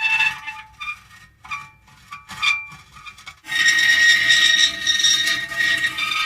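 Metal creaking: a few short, squeaky creaks over the first three seconds, then from about three and a half seconds in a long, sustained high-pitched creak.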